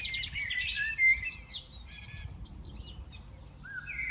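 Several songbirds chirping and calling over one another, busiest in the first second and a half with the loudest call about a second in, thinning out in the middle and picking up again near the end, over a low steady background rumble.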